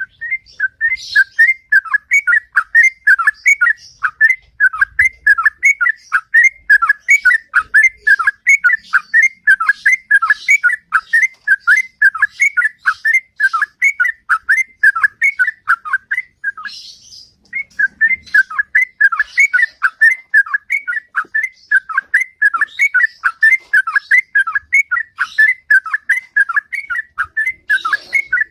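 Sooty-headed bulbul (trucukan) singing its long, loud 'ropel' song: a fast run of repeated whistled notes, with one brief pause a little past halfway.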